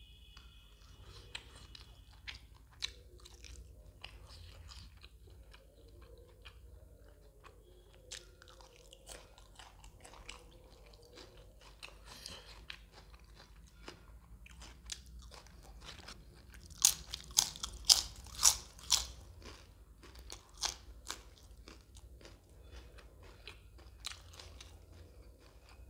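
Close-miked eating: a man chewing and crunching mouthfuls of fish curry eaten by hand, with many small sharp crunches. A run of much louder crunches comes about two-thirds of the way through.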